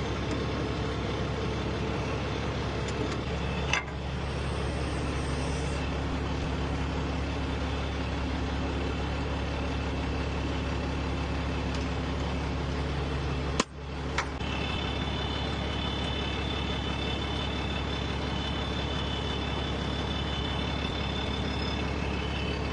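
Semi truck's diesel engine idling steadily, a low continuous hum, with two sharp clicks, one about four seconds in and another about fourteen seconds in.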